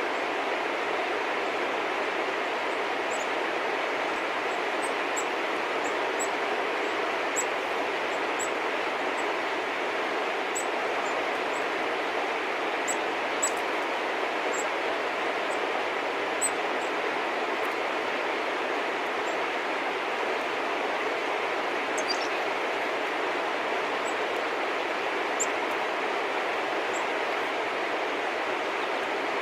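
Small birds chirping briefly and sparsely, high-pitched, over a steady, even rushing background noise.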